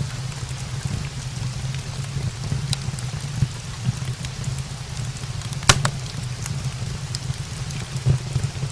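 Steady rain mixed with a fire burning in a brick fireplace: a low constant rumble and hiss, with scattered sharp crackles and pops and one louder pop just under six seconds in.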